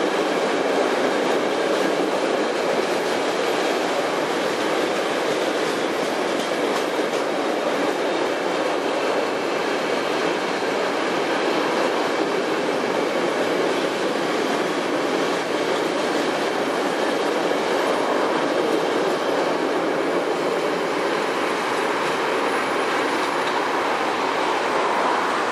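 Container freight train's wagons rolling past: a steady rumble of steel wheels on the rails.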